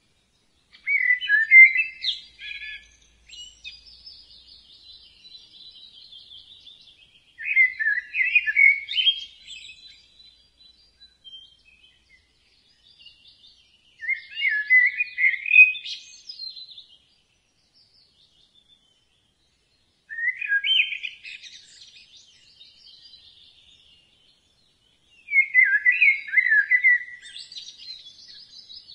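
Birdsong: a bird sings five short, loud phrases, about one every six seconds, with fainter high twittering between them.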